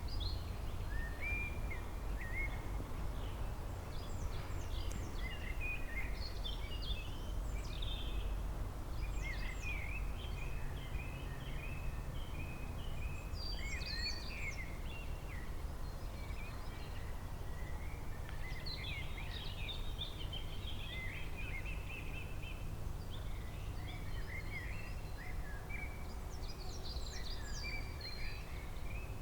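Several songbirds chirping and singing in overlapping short phrases and trills throughout, over a steady low rumble.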